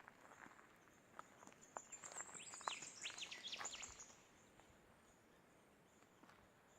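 Faint wild birds calling in the bush: a quick run of chirping, sliding notes about two seconds in, over a thin steady high tone.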